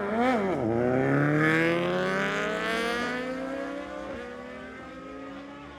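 Superbike engine blipped high at the start line, then launching and accelerating hard away, its pitch climbing with gear changes about three and four seconds in and fading as it pulls away.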